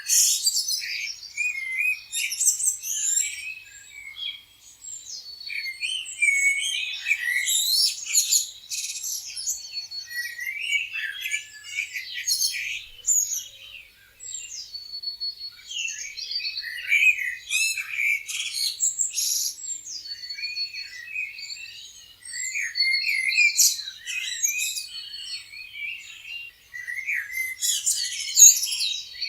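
Several songbirds chirping and trilling at once, a dense chorus of short, high, varied calls without pause.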